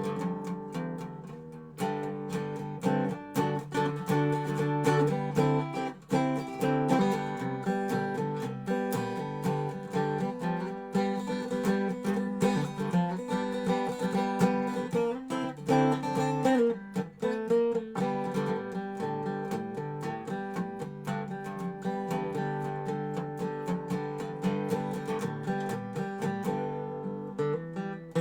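Dobro resonator guitar playing blues, a continuous run of plucked notes with ringing sustained pitches and a short slide about two-thirds of the way through.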